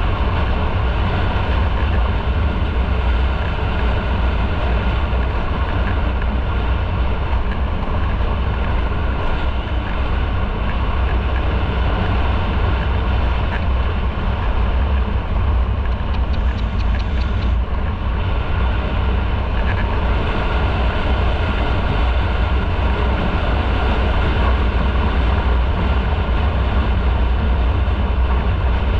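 Motorcycle on the move at a steady speed: engine running and wind rushing over the microphone, a loud, even rumble with a heavy low end.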